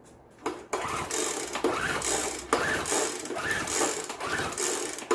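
Recoil starter of a Poulan Pro PBV200LE leaf blower being pulled over and over, a repeating rising-and-falling whir about once every 0.8 s, as the small two-stroke engine turns over without firing. A compression gauge is screwed into the plug hole, and it reads only about 30 psi: the engine has low compression.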